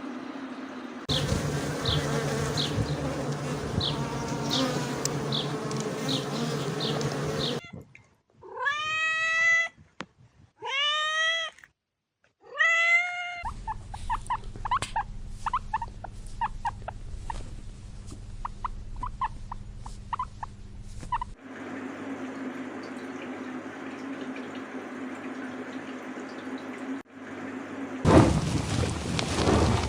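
A run of different animal calls, cut together with abrupt changes. First come repeated short high chirps over background noise. Then three drawn-out calls, each rising in pitch, then quicker short chirps, and a new, louder sound near the end.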